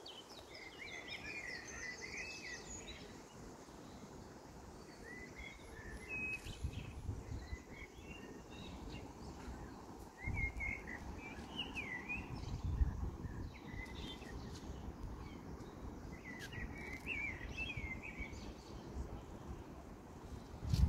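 Small birds chirping in short, quick phrases of rising and falling notes, repeating every few seconds, over a steady low outdoor rumble that swells briefly a few times.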